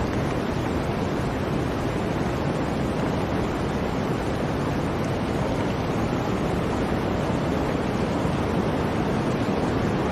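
Blizzard wind blowing steadily, a dense, even rushing noise with no gusts or breaks.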